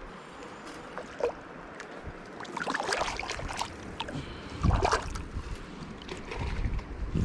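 River water rushing and splashing, with gusts of wind buffeting the microphone.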